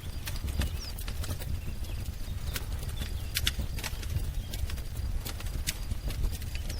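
Wood fire crackling, with frequent sharp, irregular pops over a low rumble, and a few faint bird chirps.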